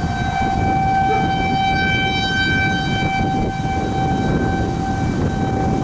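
Outdoor tornado warning siren sounding a steady tone, which swells about two seconds in and then eases slightly, over a steady low rumble.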